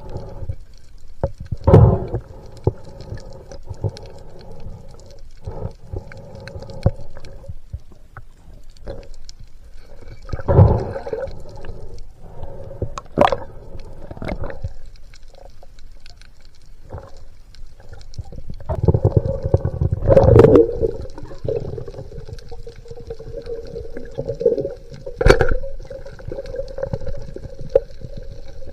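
Underwater sound of a spearfishing dive: rumbling water movement in loud bursts, scattered sharp clicks, and a steady hum.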